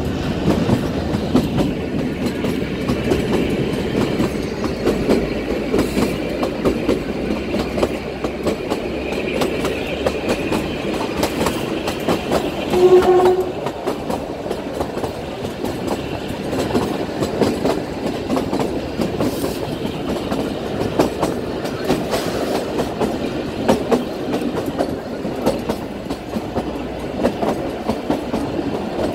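Narrow-gauge mountain train running with a steady rumble and wheels clattering over the rail joints. Its horn sounds one short toot about halfway through.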